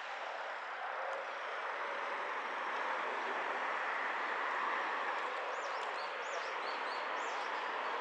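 Steady rushing noise of riding along a street on a bicycle, swelling slightly, with a few short high chirps near the end.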